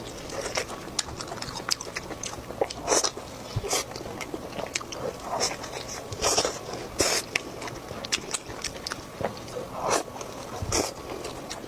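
Close-miked eating of crispy food: irregular crunching bites and chewing, with sharp crackles scattered unevenly.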